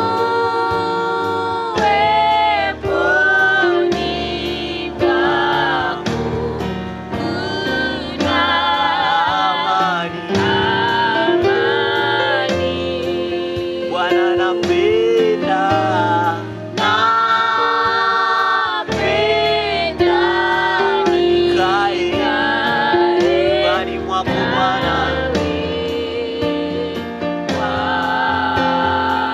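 Gospel worship song with a group of singers and instrumental backing, steady throughout.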